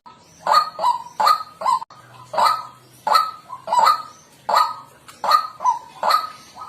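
White-breasted waterhen calling: a steady run of harsh, nasal 'kwak' notes, about two to three a second, grouped in pairs and threes.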